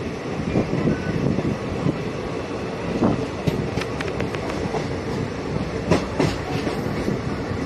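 Moving passenger train, the Delhi–Sriganganagar Intercity Express: a steady rumble of the coaches running on the track, with irregular clicks and knocks from the wheels over rail joints, bunched about three seconds in and again near six seconds.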